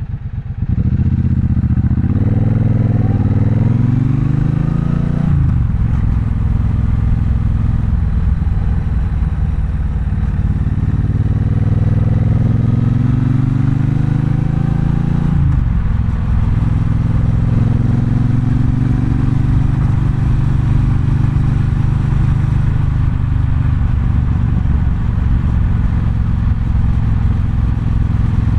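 Triumph Bonneville Bobber's 1200 cc parallel-twin engine pulling away and accelerating through the gears. Its pitch rises, drops at an upshift about 5 s in, climbs again and drops at a second upshift about 15 s in, then it runs steadily at cruising speed.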